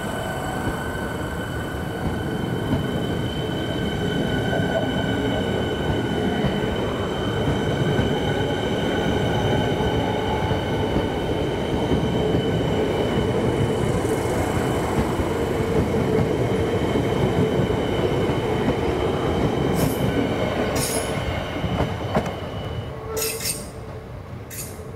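Electric suburban train running past along the platform: a dense steady rumble of wheels on rail with a steady high-pitched squeal held over it. The squeal stops and the rumble fades about 23 seconds in, with a few sharp clicks near the end.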